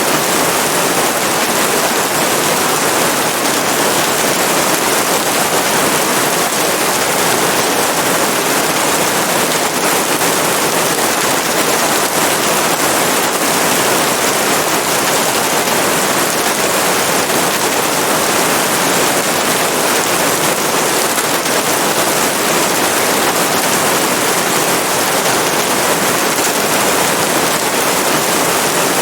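Steady heavy rain, a dense even hiss with no breaks.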